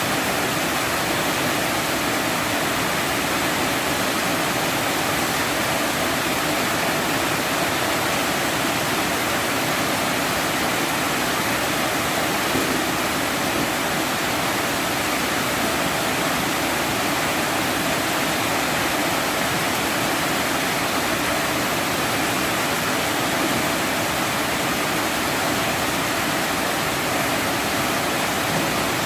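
Heavy rain pouring down steadily, an even unbroken hiss with no let-up.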